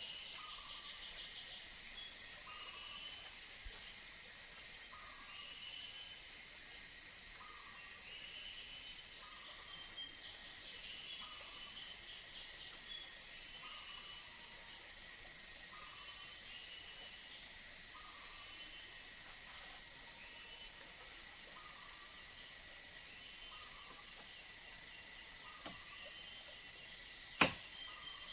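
Tropical jungle insect chorus: a steady high-pitched drone, with a short call repeating about every second and a half and a single sharp click near the end.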